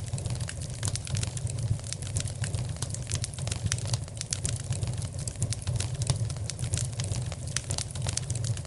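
Wood fire in a fireplace crackling: many sharp, irregular snaps over a steady low rumble of the flames.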